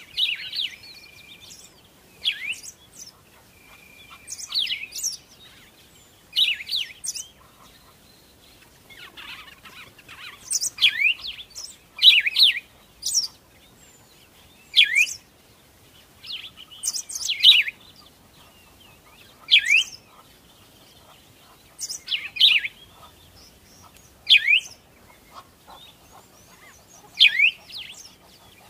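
A songbird chirping over and over: short, sharp calls in clusters about every two seconds, each a quick sweep in pitch.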